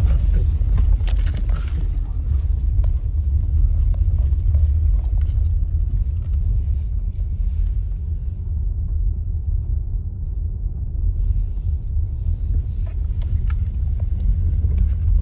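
A steady low rumble with a few faint clicks near the start and near the end.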